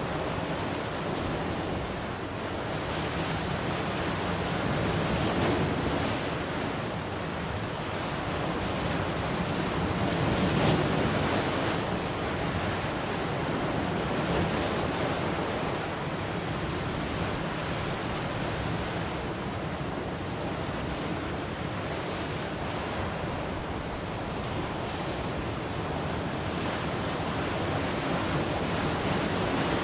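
Ocean surf breaking on the shore: a continuous wash of noise that swells and eases as waves come in, loudest about ten seconds in.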